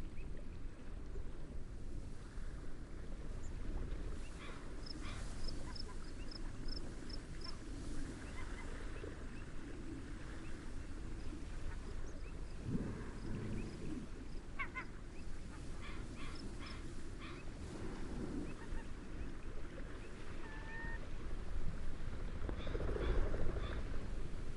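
Steady wind and gentle waves with birds calling over them: a quick run of about eight short high notes a few seconds in, scattered short calls, and a couple of lower calls later on.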